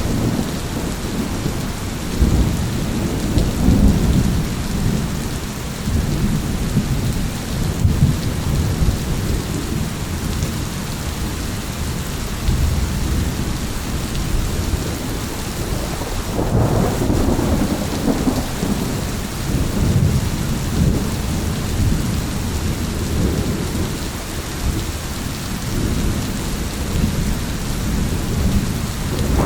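Steady rain with rolling thunder rumbling underneath, and the rumble swells strongest about halfway through.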